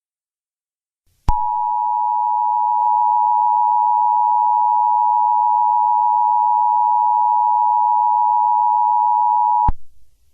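Emergency Alert System Attention Signal: two steady tones near 853 and 960 Hz sounding together. It starts with a click about a second in, holds for about eight seconds, and cuts off sharply. It announces the start of an emergency alert message.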